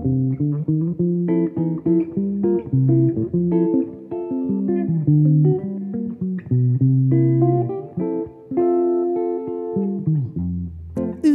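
Jazz guitar playing an instrumental break: plucked chords and single-note melody lines over low bass notes, with no singing.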